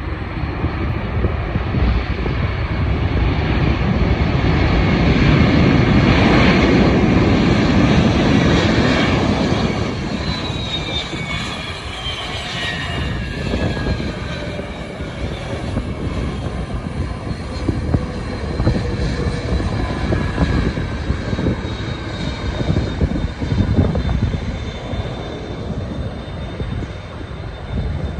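Arriving airliner passing by, its engine noise building to a peak about six to nine seconds in, then its whine falling in pitch as it moves away, leaving a lower rumble.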